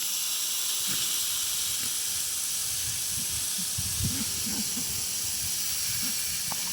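Garden hose spraying water onto pigs and into their wallow, a steady hiss, with a few short low grunts from the pigs in the middle.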